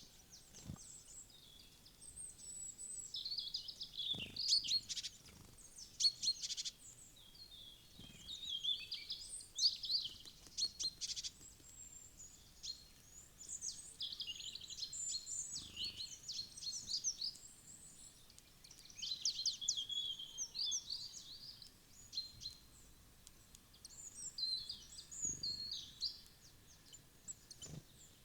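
Several small forest birds chirping and calling in quick, overlapping runs of short high notes and trills, with a few faint low knocks among them.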